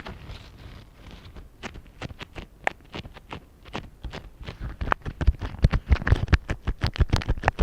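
Rubber-gloved fingertips tapping on a microphone: a run of quick, sharp taps, sparse at first, then faster and louder from about five seconds in.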